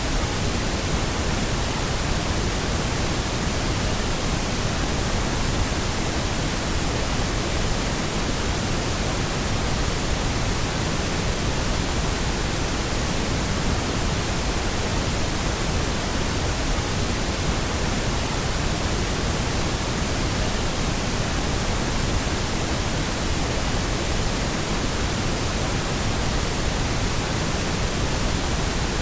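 Steady, unchanging pink noise: an even hiss spread across all pitches, with no breaks.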